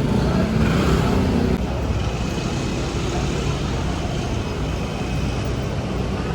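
Road traffic on a city street: a steady low rumble of vehicle engines running past.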